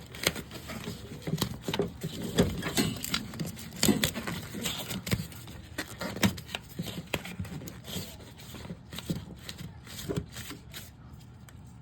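Irregular scraping, rustling and clicking of hands-on work on a refrigerant line: pipe insulation and tape being handled and fitted around the suction line.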